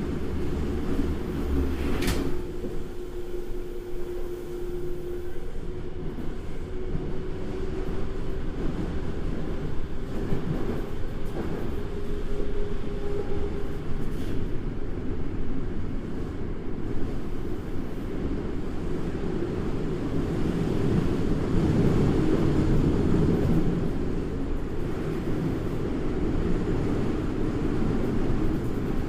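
Toei 5300 series subway car running between stations, heard from beside the cab: a steady whine that drifts slightly upward over the first half under continuous wheel-and-rail noise. There is a sharp click about two seconds in, and the running noise swells louder about two-thirds of the way through.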